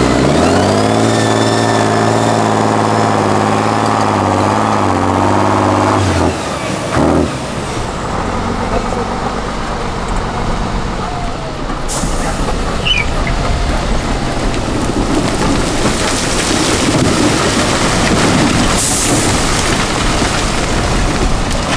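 Tatra 8x8 truck's turbo-diesel engine held at steady high revs under load for about six seconds, then dropping off suddenly. After that it runs on as a rougher, noisier rumble that builds again later.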